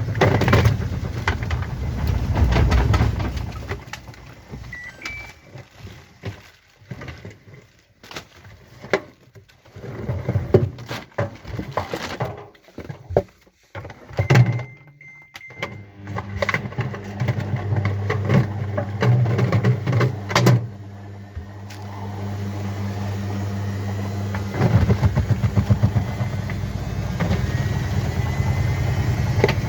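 Washing machine running: a steady low motor hum sets in about halfway through, with many sharp knocks and thuds over the first part and a rattling stretch near the end.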